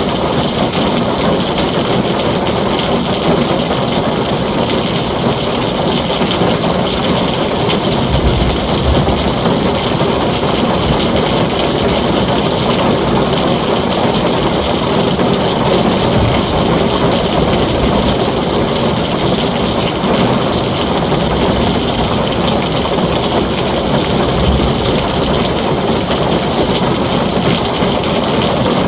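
Heavy rain falling on a tin roof, a steady dense hiss, with low rumbles of distant thunder swelling under it a few times.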